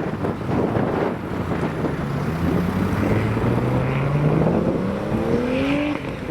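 Nissan Skyline R32 GTS-T accelerating away, its engine note climbing steadily in pitch for a few seconds before dropping off near the end. Wind rumbles on the microphone throughout.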